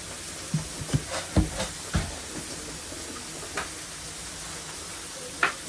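Steady sizzling hiss from a burger griddle, with four dull knocks in the first two seconds and a sharper clack near the end, the sounds of utensils and gear being handled.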